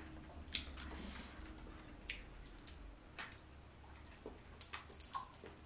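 Faint wet eating sounds: chewing and lip smacks with scattered sharp mouth clicks, several close together near the end.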